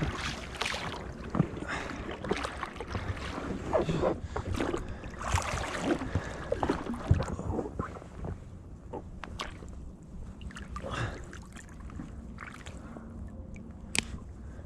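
Irregular knocks, clatter and rustling with some water sounds, busier in the first half, with a sharp click near the end.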